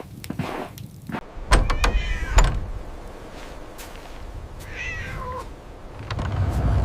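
Two heavy thumps, then a short, high animal call that falls in pitch, like a meow.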